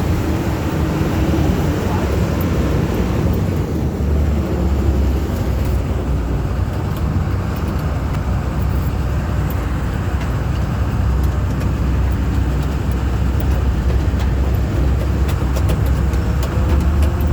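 Duck boat's engine running steadily with a low rumble.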